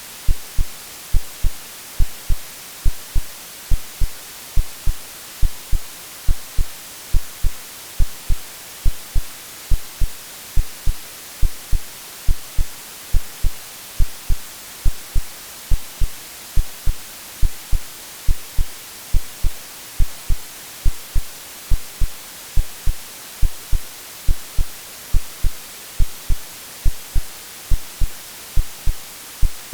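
AI-generated heartbeat sound, a steady double lub-dub thump a little over once a second, laid over continuous white noise hiss, made to resemble the sounds heard in the womb.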